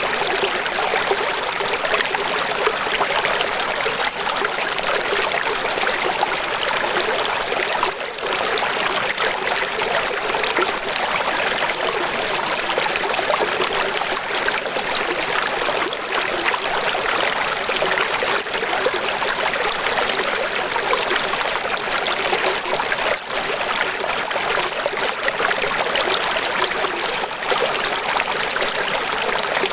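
Running water: a steady, even rush of flowing and splashing water with little deep rumble.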